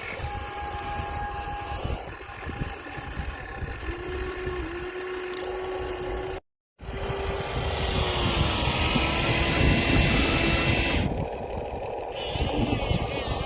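Small electric motors and gearboxes of Huina radio-controlled excavator models whirring, the whine rising and falling in pitch as they work, over a low rumbling noise. The sound cuts out completely for a moment about halfway through.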